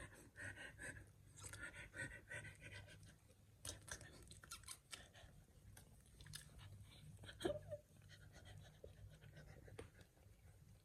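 Faint chewing with small irregular clicks and crunches, typical of a kitten eating, and one brief high sound about seven and a half seconds in.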